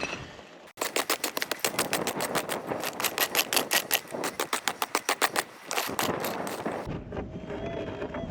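Prospecting pick scraping and chipping at hard calcrete ground in fast, even strokes, about six a second, for around six seconds.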